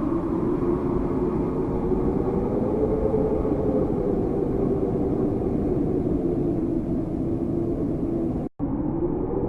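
Howling winter wind: a steady low moan that swells and eases slightly over a deep rushing rumble. Near the end it cuts out abruptly for a split second and comes back duller.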